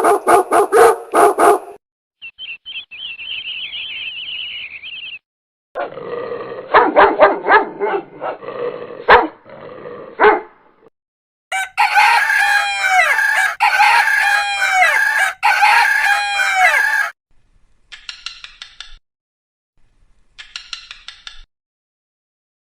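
A string of separate short animal-sound clips with gaps between them: a dog barking at the start, then several different animal calls, among them chicken and rooster sounds, and fainter short bursts near the end.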